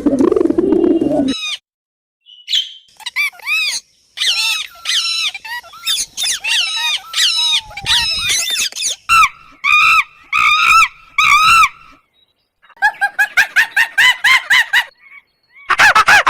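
Birds calling: runs of short, quick chirping calls, high-pitched and sliding up and down, broken by a few brief silences.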